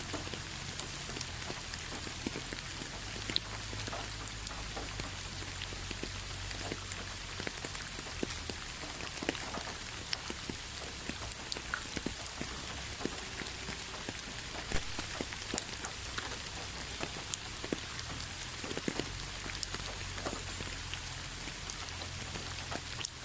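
Steady rain falling, a constant hiss with many separate drops pattering and ticking on a surface.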